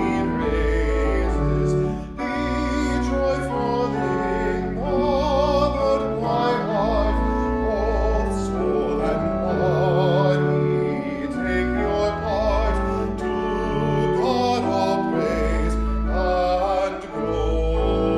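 Church music: a classically trained voice singing with wide vibrato over instrumental accompaniment with sustained low bass notes.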